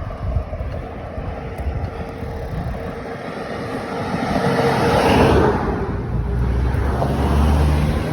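Wind buffeting the microphone of a moving bicycle, with a car passing: its rush swells to a peak about five seconds in and fades, followed by a steady low engine hum.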